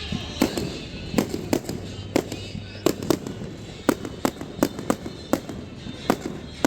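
Aerial fireworks going off close by in a fast, irregular string of sharp bangs, about two or three a second.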